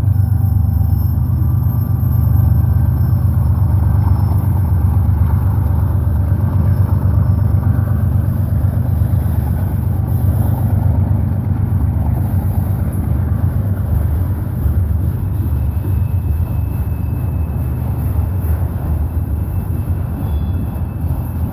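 GE ES44AC diesel locomotive, working as a distributed power unit in a freight train, passing close by with its V12 engine chugging under load: a deep, steady, pulsing rumble that eases off slightly near the end.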